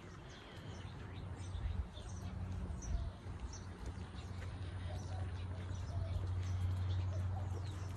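Birds chirping faintly outdoors over a low steady hum that swells and then eases near the end.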